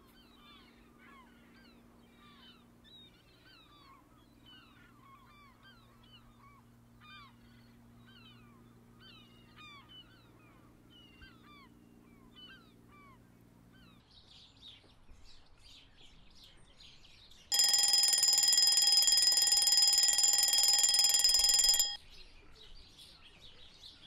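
Gulls calling over a low steady hum, then songbirds chirping. About two thirds of the way in, an alarm clock rings loudly for about four seconds and cuts off suddenly, and the birdsong returns.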